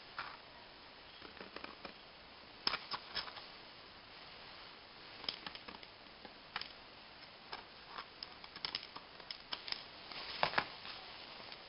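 Scattered light clicks and taps at irregular intervals, some in quick clusters, the loudest a little after ten seconds in.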